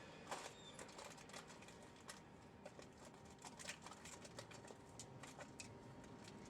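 Faint, irregular small clicks and taps, several a second, from hand work during a tyre change.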